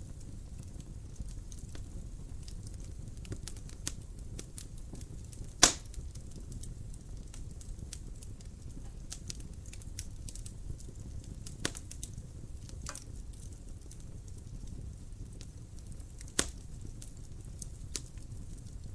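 Wood fire crackling in a fireplace: a steady low rumble of flames with scattered small snaps, and two loud pops, about six and about sixteen seconds in.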